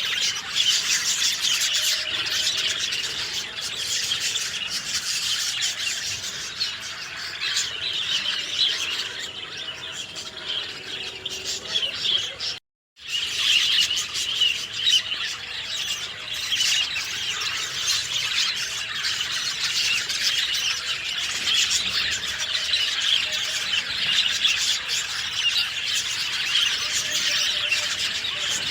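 Many small birds chirping and twittering at once in a dense, busy chorus. The sound cuts to silence for a split second a little before halfway, then the chorus resumes.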